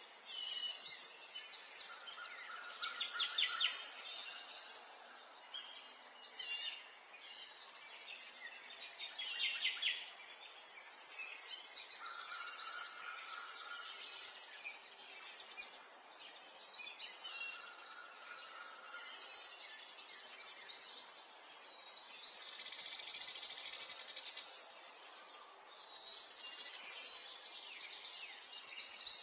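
Several birds singing and calling, with many short high chirps and rapid trills overlapping, and a lower steady whistled note held for a second or two a few times.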